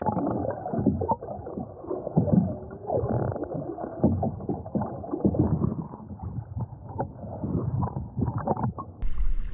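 Muffled underwater water noise: dull sloshing and rushing with irregular low thumps and a few clicks. Near the end it opens out into brighter splashing water at the surface.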